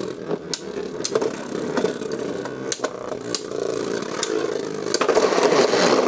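Beyblade Burst tops spinning and clashing in a battle stadium: a steady whir broken by repeated sharp hits, louder near the end.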